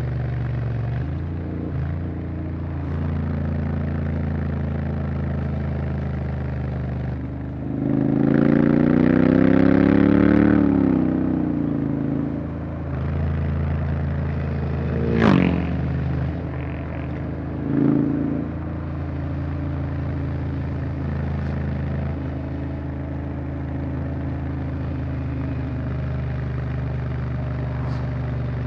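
Honda X-ADV 750's parallel-twin engine running at a steady cruise, with one surge of throttle, rising and then falling in pitch and getting louder, about eight to eleven seconds in. A brief sound sweeps sharply down in pitch around fifteen seconds in.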